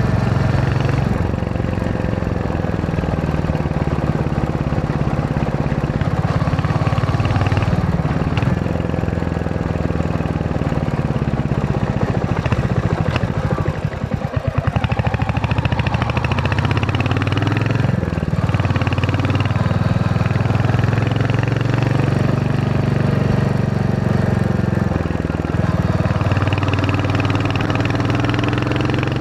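Royal Enfield Hunter 350's single-cylinder engine running while the motorcycle rides along, with a steady engine note. About halfway through, the engine eases off to slow, separate firing pulses, then picks up its steady note again.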